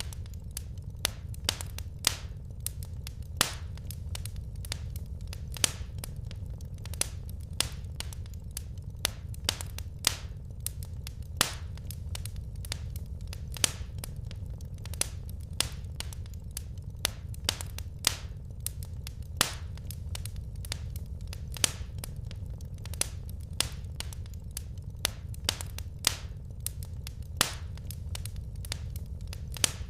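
Wood fire crackling: irregular sharp pops and snaps, a few a second, some much louder than others, over a steady low rumble of burning logs.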